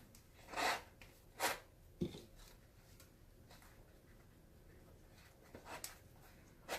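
A few short rubbing scrapes of leather being handled, with one soft knock about two seconds in, from a baseball glove being worked on during repair.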